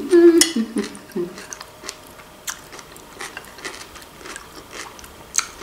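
A person chewing soft stuffed bell pepper with the mouth closed, with a few short hums in the first second or so, then small wet chewing clicks and a few light clicks of a spoon on the plate.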